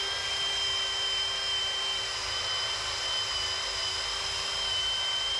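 Power drill spinning a rubber decal eraser wheel against painted metal to strip old stickers, a steady high whine.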